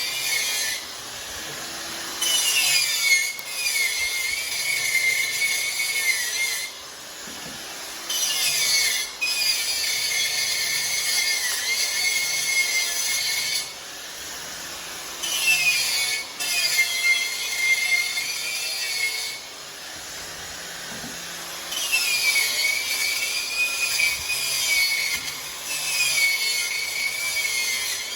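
TIG welding arc from an AC/DC 200 A inverter welder, burning in stretches of about four to six seconds with short breaks between. It makes a hiss with a wavering high whine.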